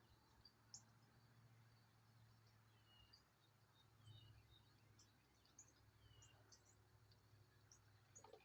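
Faint, scattered chirps and short falling whistles of small songbirds, over a steady low hum.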